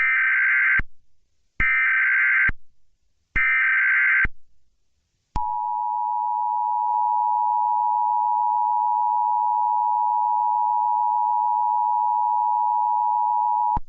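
Emergency Alert System tones: three short bursts of SAME header data about a second apart, then the two-tone attention signal, a steady dual tone held for about eight seconds that cuts off abruptly. Together they announce the start of an emergency alert broadcast.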